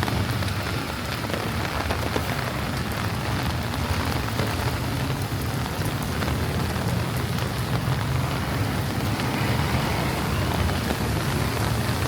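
Heavy rain falling steadily, a dense patter of drops with a steady low rumble underneath.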